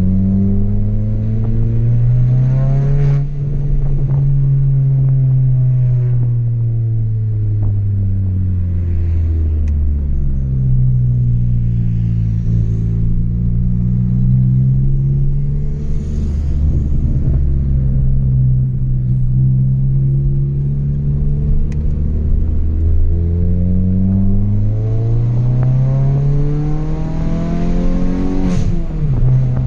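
Chevrolet Astra 2.0 four-cylinder engine through a straight-through exhaust with no mufflers, driving: revs climb and drop sharply at a gear change about three seconds in, fall away for several seconds, rise and hold fairly steady, then climb again to another sharp shift near the end.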